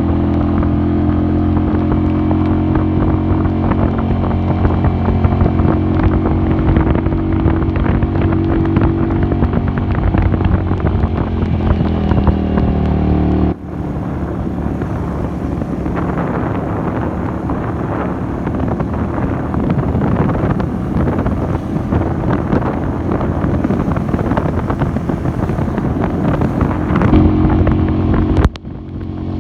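A 150 cc cafe racer motorcycle's engine running under way, with wind rushing over the microphone. Its pitch drops steadily towards the middle as the bike slows, then the sound changes abruptly to a rougher, noisier run with more wind rush.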